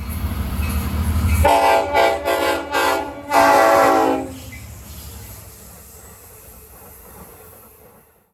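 Locomotive rumble, then a multi-tone train horn sounding several short blasts and one longer one. The rumble fades away after the horn stops.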